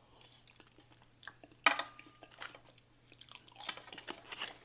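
Close-miked chewing of Popeyes fast food, with one sharp crunchy bite about a second and a half in and a run of smaller crunches near the end.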